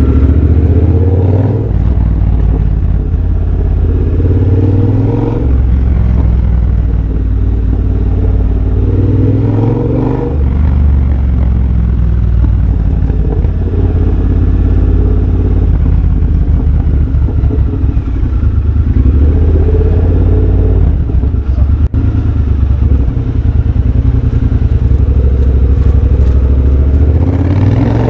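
2023 Triumph Bobber's 1200 cc parallel-twin running through a de-catted X-pipe and Motone shorty exhaust while being ridden, the exhaust note swelling each time the throttle opens, about five times, and falling back to a low rumble between.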